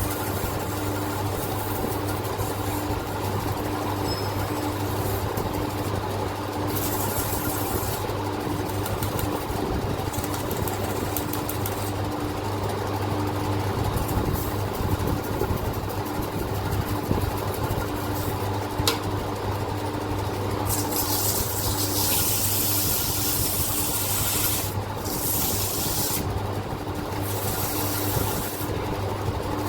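Sandpaper rubbing on an old engine piston, coming in stretches of hiss, the longest near the end, over a steady mechanical hum.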